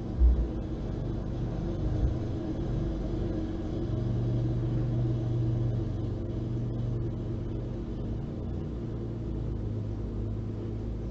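Low steady rumble with a hum, swelling a little about four seconds in, with a soft knock or two near the start.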